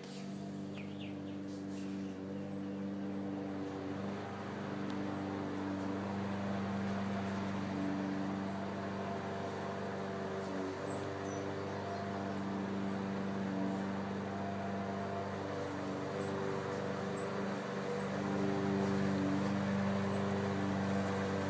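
A steady low mechanical hum, its pitch wavering slightly, with a few faint high chirps scattered through it.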